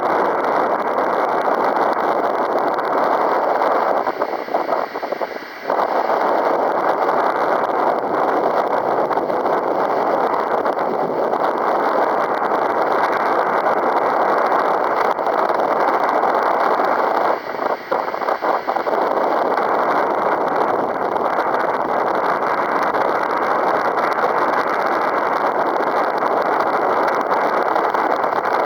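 Strong wind, near 15 m/s, rushing across the microphone as a steady noise. It eases briefly about five seconds in and again around eighteen seconds in.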